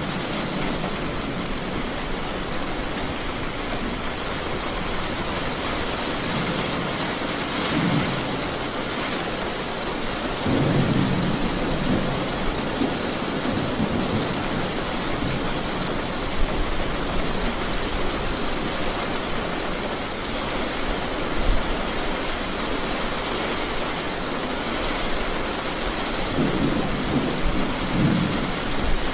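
Steady rain falling, with low rolls of thunder rumbling through it: one about eight seconds in, a longer one around eleven seconds, and two more near the end.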